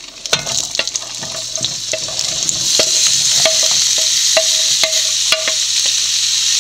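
Chopped onion and capsicum hitting hot oil in a frying pan: the oil sizzles, swelling about two seconds in as more of the vegetables go in, then holding steady. A row of light knocks, about two a second, comes from the spatula striking the plate as it pushes the pieces off.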